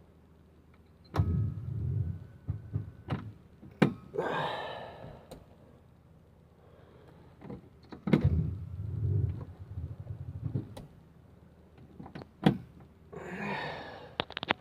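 Motorhome engine cranked twice by its starter, each try lasting about three seconds, without catching, with sharp clicks in between. The RV's battery is frozen and won't hold a charge, and it is being boosted with jumper cables from a running car.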